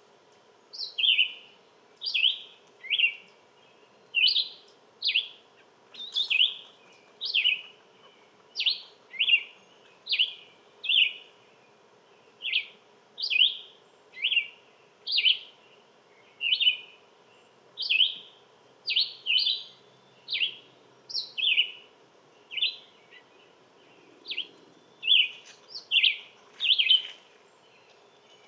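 A songbird calling over and over: short, sharp notes that slide downward in pitch, about one a second, sometimes in quick pairs.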